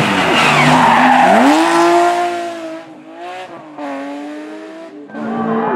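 Rally car engine at high revs with a hiss of tyre squeal or skidding in the first second and a half. The revs climb and hold, then drop at a gear change; the sound falls quieter for a couple of seconds and comes back loud near the end.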